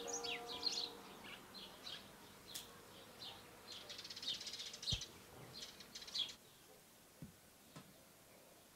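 Birds chirping in many short, quick high calls, which stop about six seconds in, leaving quiet room tone.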